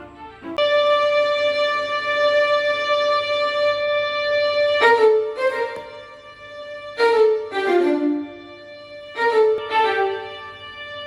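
Violin music played back through a portable Bluetooth speaker: one long held note, then a run of shorter falling notes.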